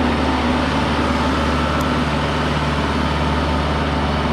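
An engine running steadily at an even speed, with a constant low hum under a wide noisy wash.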